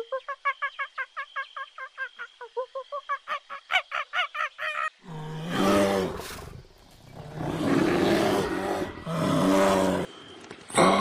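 Animal calls played one after another: first a rapid run of short honking calls, about five a second, for around five seconds, then three long, loud, low-pitched calls, with another starting near the end.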